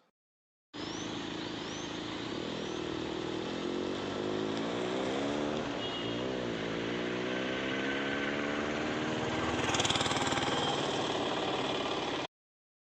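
A motor vehicle's engine running, its pitch slowly rising and falling. It starts about a second in and cuts off suddenly near the end.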